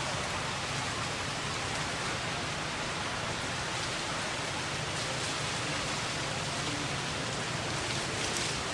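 Steady, even rushing hiss of outdoor ambient noise, with no distinct events.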